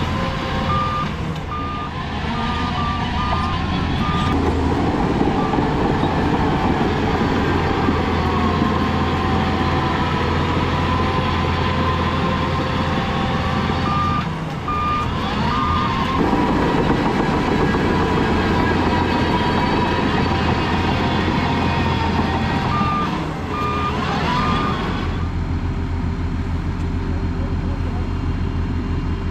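Heavy diesel earthmoving machinery running steadily, with a reversing alarm beeping in three short runs as a machine backs up.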